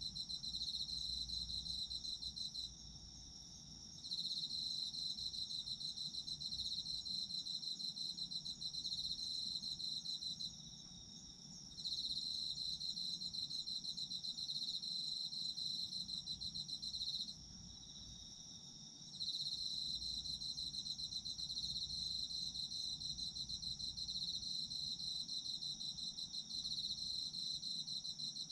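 A chorus of autumn crickets: one high, steady trill runs throughout, while a lower, pulsed trill sings in long stretches of about six to eight seconds, broken three times by pauses of a second or two.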